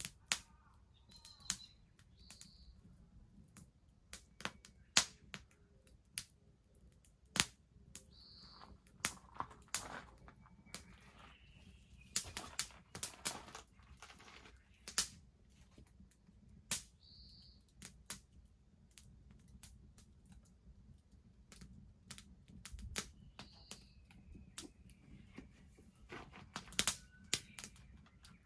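Wood bonfire crackling, with irregular sharp pops and clicks. Short high bird calls come now and then.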